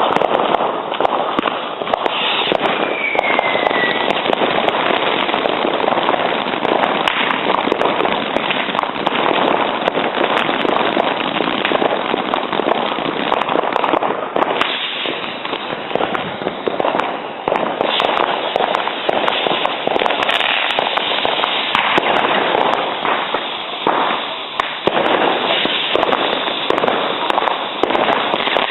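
Dense fireworks and firecrackers going off without a break: a continuous crackle of overlapping bangs and pops. A falling whistle sounds about three seconds in.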